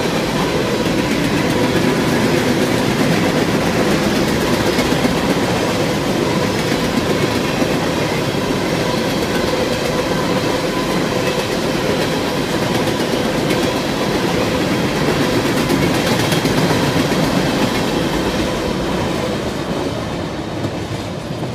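CSX freight train of tank cars rolling past at close range, a steady rumble and clatter of wheels on rail joints, easing off near the end as the last cars go by.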